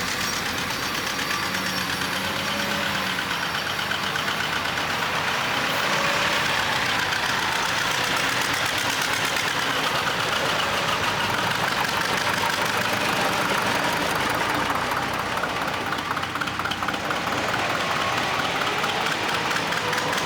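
Historic tractor diesel engines running steadily, with a knocking diesel clatter.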